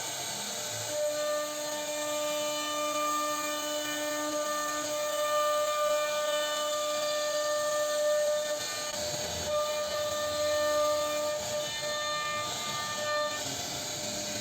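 CNC router spindle running at high speed and cutting wood, a steady high whine over the hiss of the cut, dipping briefly about nine seconds in and again near the end.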